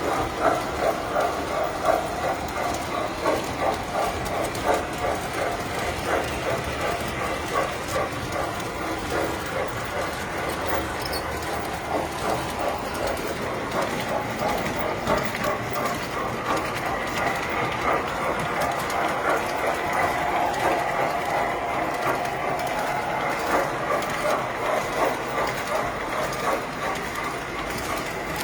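Tinplate toy electric trains running on a model layout: the motors hum steadily while the wheels click in a regular rhythm over the track.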